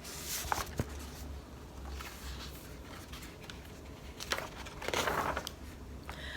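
Paper rustling as a picture book's pages are handled and turned, in short rustles with a light click about a second in and more rustling a little after four and five seconds in.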